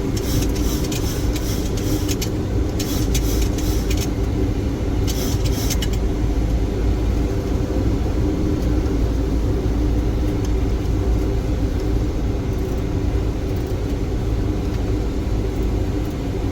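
Steady cockpit noise of a Boeing 737 on final approach: airflow and engine rumble with a constant low hum. Rain hits the windshield in hissing bursts during the first several seconds, then fades.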